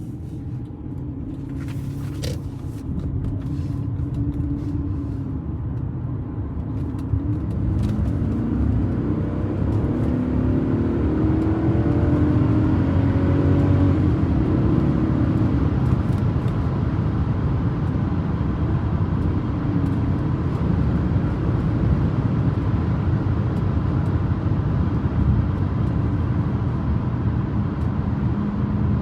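1998 Audi A8 engine pulling away and gathering speed, its note rising over the first quarter-minute with a few light clicks near the start, then running steadily with tyre and road rumble.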